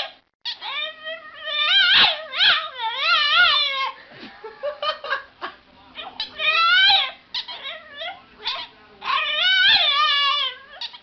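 An animal crying out in a series of long, wavering, pitched calls, each about a second long with short breaks between.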